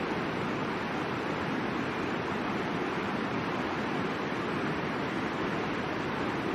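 Steady rushing of the Middle Fork of the Boise River, an even wash of flowing water with no breaks.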